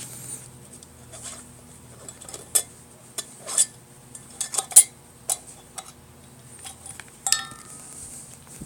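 Sharp clinks and knocks of a cooking pot and utensils being handled, about a dozen scattered over several seconds. The last one, near the end, rings on briefly.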